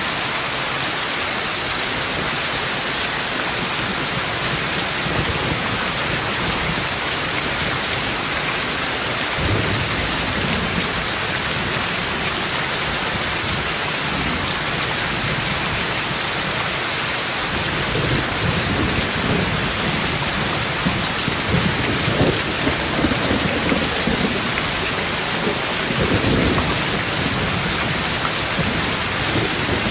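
Heavy, steady rain with thunder rumbling low beneath it: a short roll about a third of the way in, then longer rolls through most of the last third.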